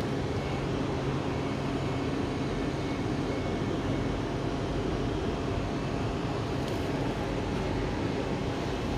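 Steady hum of a West Midlands Railway electric multiple unit standing at the platform, its onboard equipment running, with a low drone throughout.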